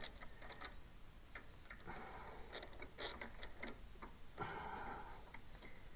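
Faint, scattered ticks and clicks of hand tools and metal parts as the new ignition coil's mounting screws are run in on a Kohler lawn tractor engine, with two short stretches of soft rasping.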